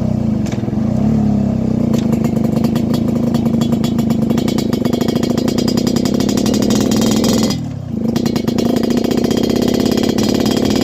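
Yamaha RX-King's 135cc two-stroke single-cylinder engine running under way with a rapid, buzzing firing beat. About three quarters of the way through it drops off briefly, then picks up again.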